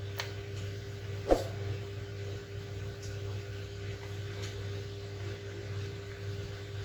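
Steady low electrical hum with a faint steady tone above it, and a single sharp knock about a second in.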